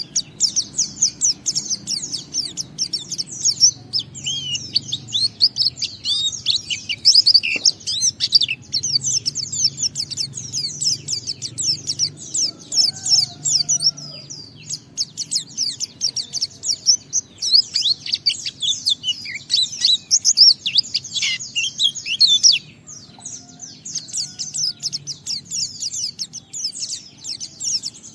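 White-eye (pleci) singing a fast, unbroken, high-pitched twittering song in long runs, the extended 'ngalas' song, with a short break about two-thirds of the way through.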